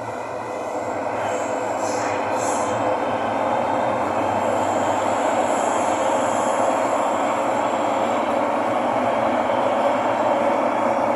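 Thomson-East Coast Line metro train running between stations, heard from inside the car: a steady rumble and hum that grows louder over the first few seconds as the train speeds up, with a faint high-pitched whine about halfway through.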